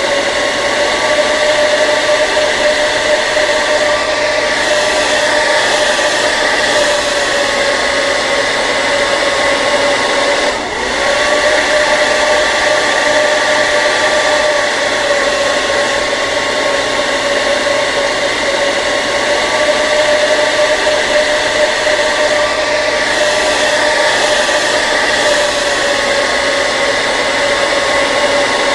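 Hair dryer running steadily: a continuous blowing rush with a motor whine, briefly dipping once about ten seconds in.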